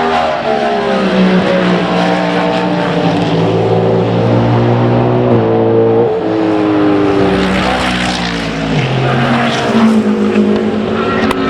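Race car engines running hard on track. The engine note climbs in pitch and then steps down sharply several times with gear changes, and at times more than one car is heard at once.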